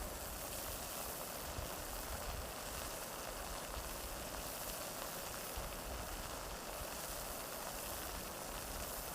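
Steady rain, an even hiss with no music over it.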